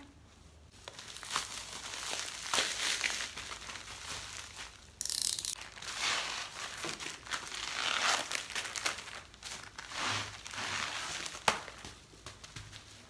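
Packaging and pleated paper of an IKEA pleated blind crinkling and rustling as it is unwrapped by hand, in irregular bursts, with a louder tearing sound about five seconds in.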